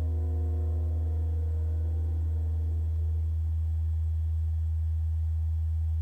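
A steady low hum, with a ringing tone of several pitches that fades out over the first three seconds.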